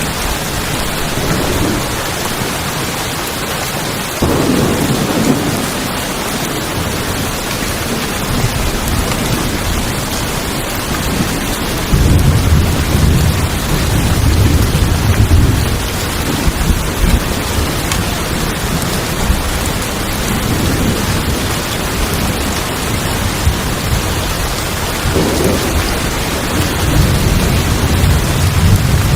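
Steady heavy rain on a tin roof, with rolls of low thunder: one setting in suddenly about four seconds in, the loudest about twelve seconds in lasting a few seconds, and more rumbling near the end.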